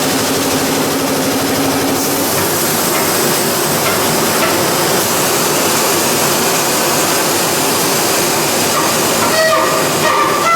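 Steady, loud running noise of a plastic pelletizing line's machinery, with a low hum that stops about two seconds in.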